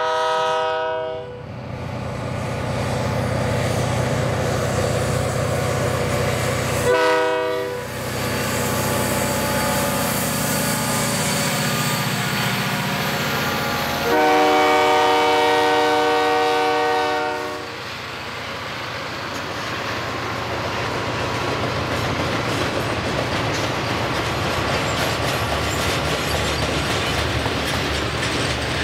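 Diesel freight locomotive's multi-note air horn sounding three times: a blast that ends just after the start, a short toot about seven seconds in, and a long blast of about three and a half seconds from about fourteen seconds in. Between and after the blasts the locomotive rumbles past, followed by the steady wheel clatter of a long train of loaded welded-rail cars rolling by.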